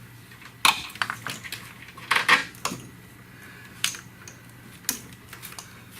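About eight sharp metallic clicks and clinks, irregularly spaced, with two close together a little after two seconds in: small metal parts and tools handled around a wiring harness plug.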